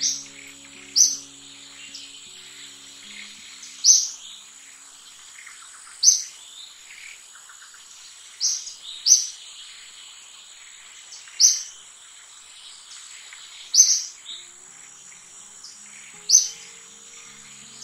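A bird giving short, high chirps, about ten in all, one every one to two and a half seconds and sometimes two close together, over a steady high insect hum. Background music fades out in the first few seconds and comes back near the end.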